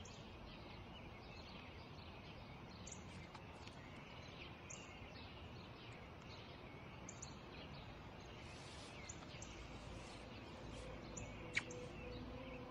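Faint outdoor ambience with small birds chirping here and there: short, high chirps scattered throughout, with one sharp falling chirp near the end. Soft music begins to come in over the last couple of seconds.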